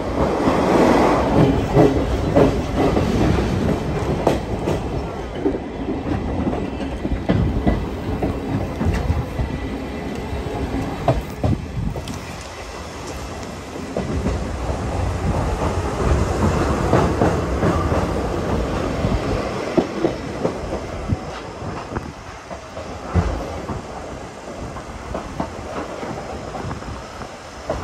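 Passenger coach of a steam train running on rails, with a steady rumble and wheels clicking over the rail joints. It is louder at first while passing through a tunnel, then eases as the train comes out into the open.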